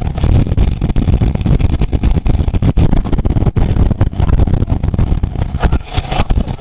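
Loud wind rushing and buffeting over a camera microphone on a moving racing bicycle, a steady low roar with rapid ragged fluctuations.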